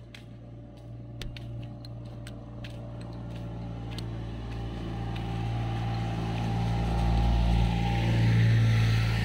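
A car approaching, its engine hum growing steadily louder and loudest near the end, with a few light clicks in the first few seconds.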